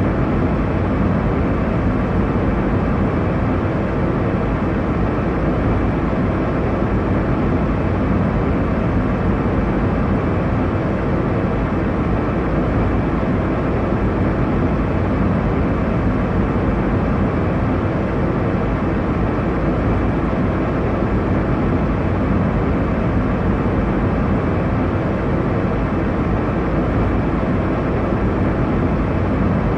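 Steady airliner cabin noise in cruise: a constant low rumble and rush of engine and airflow noise, with no changes or separate events.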